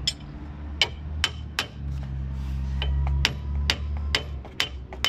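About ten sharp hammer blows on metal, each with a short ringing note, tapping a front wheel bearing into the hub carrier, with a steady low hum underneath.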